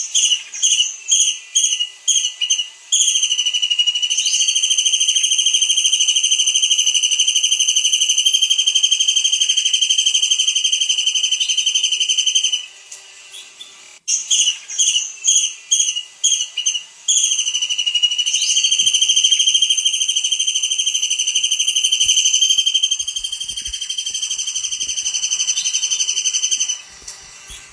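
Kingfisher (tengkek udang) song: a run of about six short, sharp high notes, then a long, steady, high trill lasting about nine seconds. The phrase repeats about halfway through.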